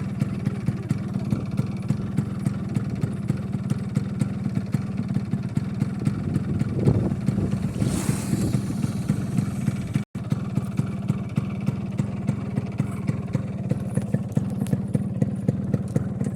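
Yamaha RX100's single-cylinder two-stroke engine running steadily with an even pulsing note, with one brief rise in revs about seven to eight seconds in.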